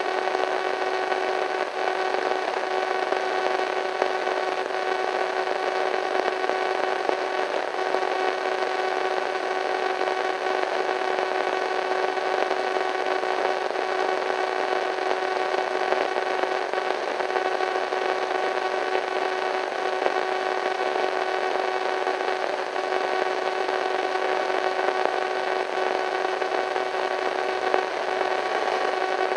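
Radio static: a steady hiss with a few faint, steady tones running through it, unchanging throughout.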